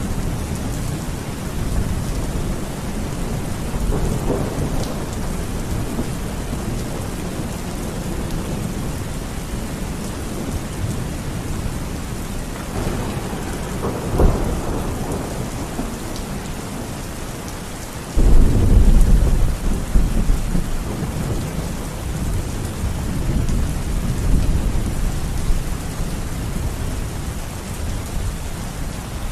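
Steady rain falling, with thunder rolling in the background. A much louder thunderclap breaks in suddenly about two-thirds of the way through and rumbles away over a few seconds.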